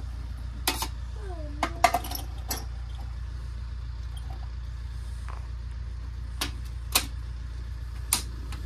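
A vehicle engine idles outside as a low steady rumble, with a few sharp clicks and knocks over it. Two clicks come close together about two seconds in, and more follow later as a hand works the knob of a portable gas stove.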